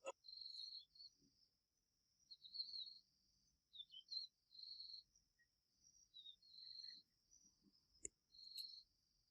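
Faint outdoor insect chorus: crickets chirring steadily on a high note, with short high chirps repeating about every two seconds and a single sharp click about eight seconds in.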